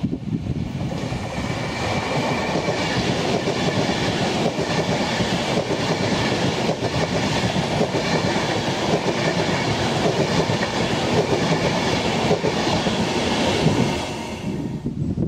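Virgin Trains Class 390 Pendolino electric train passing close at speed: a steady rush of wheels on rail with scattered sharp clicks, dropping away about a second before the end as the last coach goes by.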